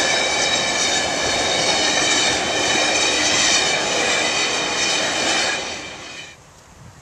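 Train going by at close range: a loud, steady high whine over a rushing noise, which drops away abruptly about six seconds in.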